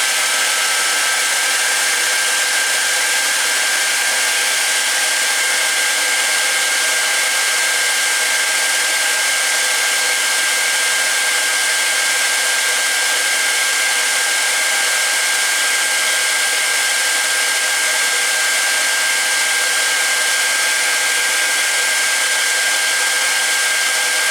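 Handheld hairdryer running steadily: a loud, even rush of fan and blown air with a steady high whine over it.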